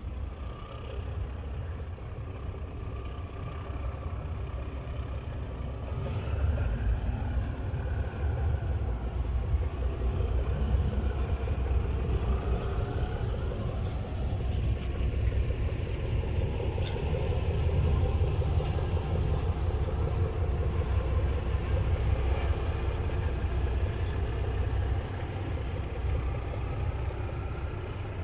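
Diesel locomotive No. 540's engine running during shunting. It grows louder about six seconds in and eases off a little near the end.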